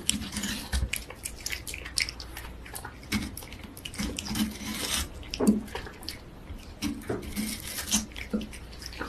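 A cat licking and lapping at a juicy wedge of watermelon, making irregular wet clicks and smacks.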